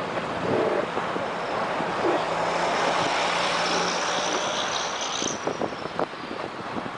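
An aircraft engine passing overhead over a steady rushing noise, its high whine rising slightly and then falling away about five seconds in. Short sharp crackles follow near the end.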